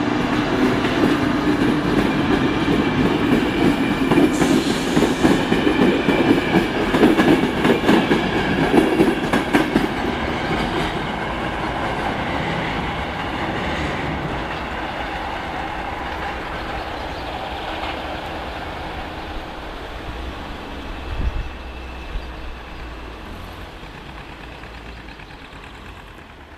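A train running past over a level crossing, its wheels clattering rapidly over the rail joints for the first ten seconds or so. The sound then fades steadily away as it moves off, with a single thump about 21 seconds in.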